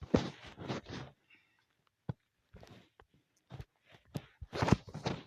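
Close rustling and handling noises in short, irregular bursts, with a single sharp click about two seconds in.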